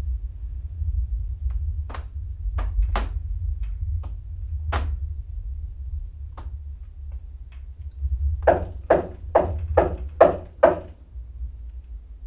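Knocking: a few separate knocks, then a quick run of about seven knocks, about three a second, near the end, over a low steady rumble.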